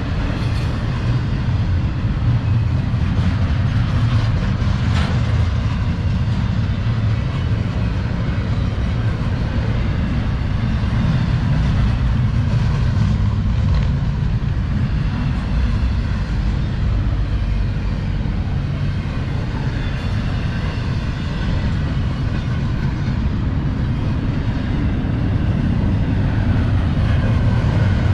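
Double-stack intermodal freight cars of a CSX train rolling past: a steady, loud rumble of steel wheels on the rails.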